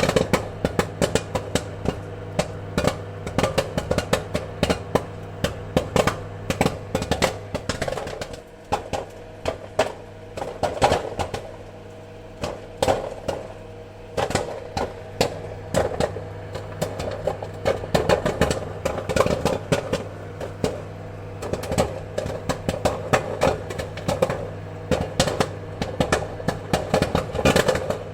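Popcorn kernels popping, with many quick, irregular pops in a dense stream over a steady low hum. The popping thins out briefly about a third of the way in, then picks up again.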